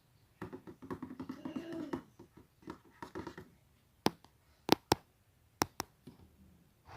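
Close-up tapping and scratching on small objects: a quick patter of taps for about two seconds, a few softer taps, then five sharp clicks spread over the second half.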